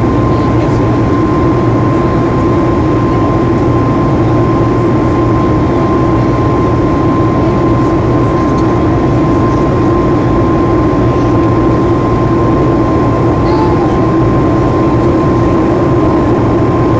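Cabin noise inside a Boeing 737 MAX 8 in flight: a loud, steady roar of its CFM LEAP-1B engines and airflow, with a thin steady whine above it.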